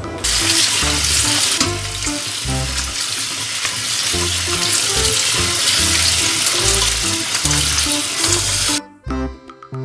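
Tap water running hard onto cooked noodles in a metal colander while a gloved hand rubs them, a steady loud hiss that stops abruptly near the end. Light background music plays under it.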